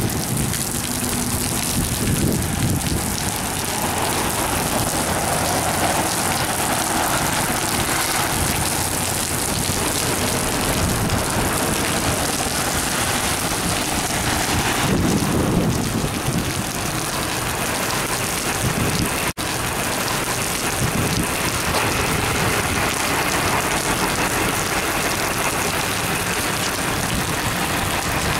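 Steady heavy rain falling on flooded pavement, with cars' tyres swishing through standing water on the road; one passes about halfway through. The sound cuts out for an instant about two-thirds of the way in.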